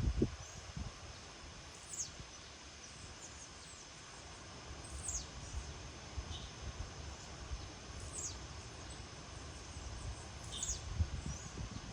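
A bird repeating a high call that sweeps downward in pitch, about every three seconds, with a few fainter, lower chirps between, over a steady outdoor hiss. There are low rumbles at the start and again about eleven seconds in.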